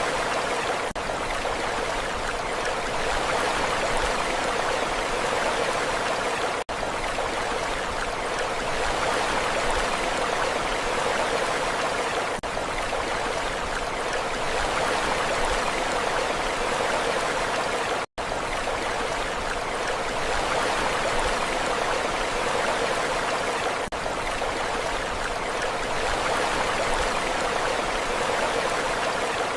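Steady rushing water, an even hiss with no swells or breaking waves, that drops out briefly about every six seconds, most sharply for a split second about two-thirds of the way through, as a short recording loops.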